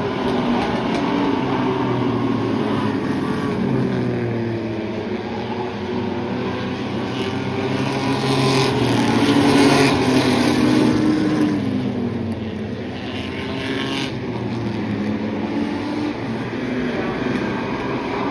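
Several racing trucks' engines running at speed on an oval track, their pitch rising and falling as they pass, loudest about nine to ten seconds in.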